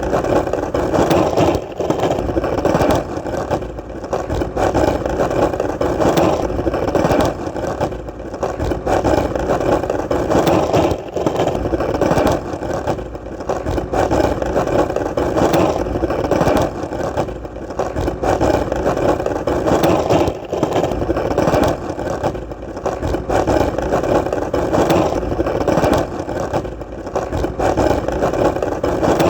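Skateboard wheels rolling steadily over hard ground, a continuous rumbling hum broken by frequent irregular clicks.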